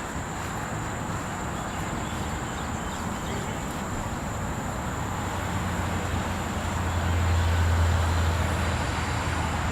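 A motor vehicle passing on a road: a low rumble that builds, is loudest about eight seconds in, then eases off.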